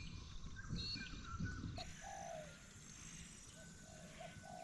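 Wild birds calling: short high chirps in the first couple of seconds, then several lower cooing calls in the second half, over a low rumble.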